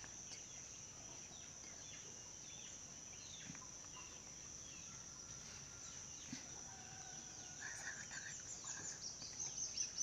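Faint bird chirps over a steady high hiss. From about eight seconds in, a quick run of chirps grows louder, about three or four a second.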